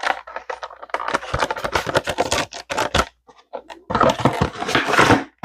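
Diecast toy packaging (plastic blister and card) being handled, a dense run of crackles and scratches with a short pause a little after three seconds in.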